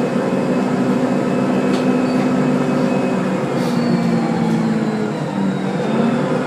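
Tedom C12G CNG city bus running under way: a steady engine and drivetrain drone with several tones that drift slowly in pitch, and a thin high whine that falls slightly about halfway through.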